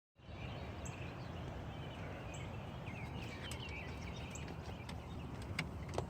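Outdoor background noise: a steady low rumble with short bird chirps scattered through it and a few sharp clicks near the end.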